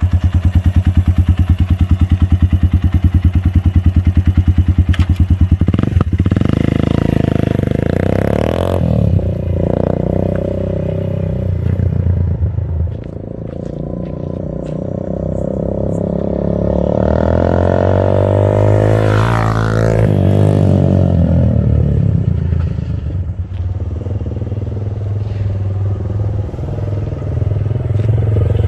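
Motorcycle engine with an aftermarket Akrapovic exhaust, dB killer removed, idling steadily, then revved up and down repeatedly from about six seconds in, with one quick rise and fall of revs about two-thirds of the way through.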